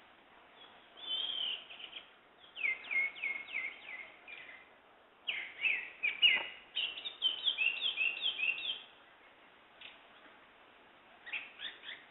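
Songbirds singing in bursts of quick, repeated high notes that each slide downward, in several phrases with short pauses between them.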